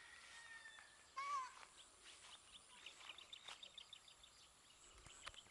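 Faint outdoor ambience with birds calling: a short rising-and-falling call about a second in, then a quick run of high chirps around the middle.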